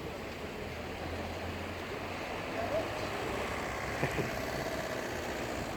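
Steady outdoor ambience of a seaside resort street: a wash of wind, traffic and surf noise with faint voices of passers-by, and one short knock about four seconds in.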